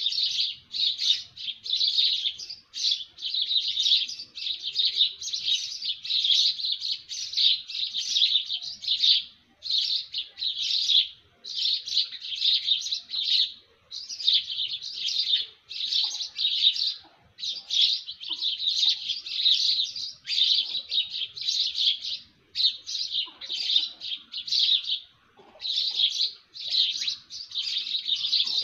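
Small birds chirping: rapid, high chirps packed into runs of about a second or so, with short breaks between them.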